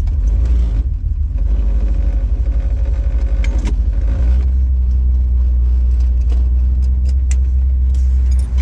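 1969 Chrysler New Yorker's 400 big-block V8 running through its Dynamax Ultraflow mufflers. The engine note shifts for the first few seconds, then settles into a steady idle about four seconds in. A few light clicks sound over it.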